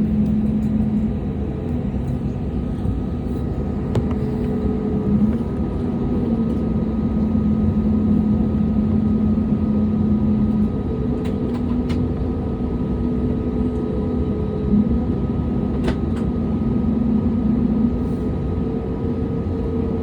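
Steady hum inside an airliner cabin, engines and air-conditioning running, with a few held tones that waver slightly and a few faint clicks.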